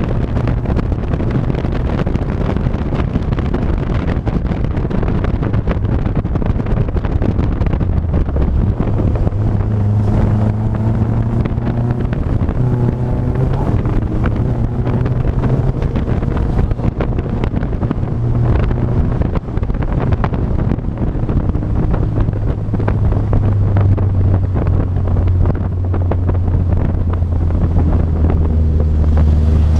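A vehicle engine running under way, its pitch rising and falling in steps as it changes speed, with steady wind rushing over the microphone.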